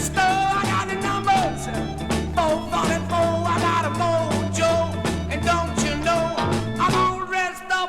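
Instrumental break in a 1960s British rhythm-and-blues band recording: a lead instrument plays bending melodic lines over bass and drums. Near the end the bass drops out.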